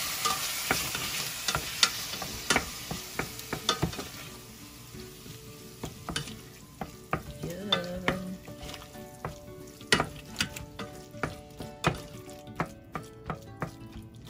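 Ground chicken sizzling in a stainless steel saucepan, stirred and broken up with a wooden spoon that knocks and scrapes against the pan. The sizzle fades over the first few seconds, leaving mostly the irregular knocks of the spoon.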